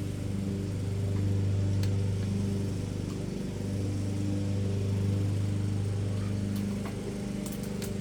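A steady low mechanical hum that swells and fades slowly, with a few faint light clicks.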